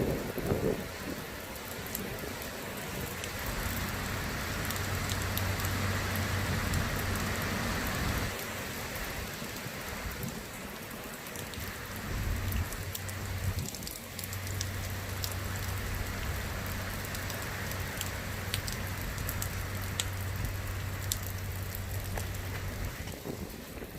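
Rain falling steadily in a thunderstorm, with many separate drops ticking close by. A low steady hum sets in and drops out a couple of times.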